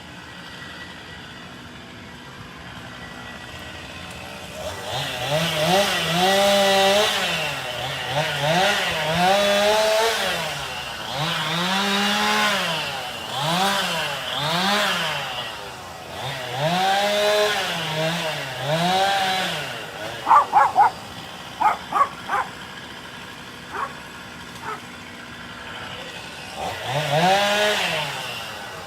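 Chainsaw cutting wood, its engine revving up and down over and over, each rev rising and falling in pitch over a second or two. About twenty seconds in, the saw pauses and several sharp knocks are heard; near the end it revs again.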